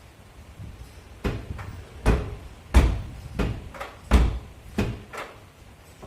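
A series of about seven dull, heavy knocks, irregularly spaced about half a second to a second apart, the ones in the middle loudest.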